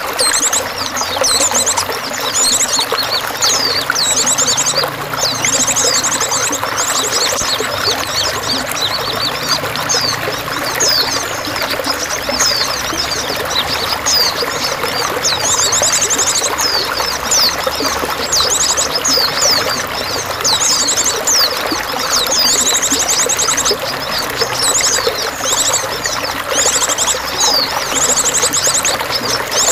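Steady running, splashing water with many small birds chirping over it, their high calls broken every few seconds by short, rapid trills.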